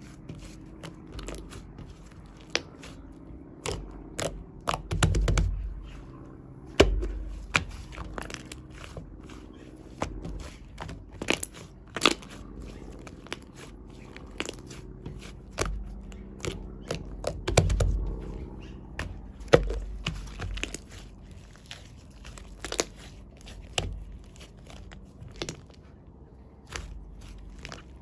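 Shaving foam being squeezed and crushed by hand, giving irregular crackling and crunching with scattered sharp pops and a few louder squishing swells.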